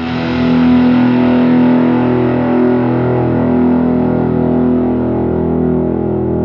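Electric guitar chord through a JHS 3 Series Reverb pedal, sustaining as a long, steady ambient reverb wash whose upper range slowly fades.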